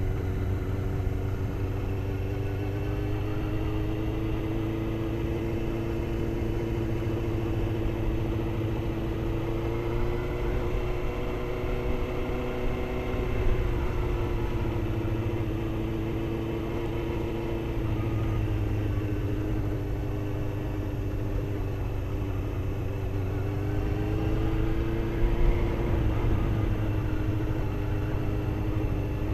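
Motorcycle engine running at low speed, its pitch drifting gently down and up with small throttle changes, over a steady low rumble.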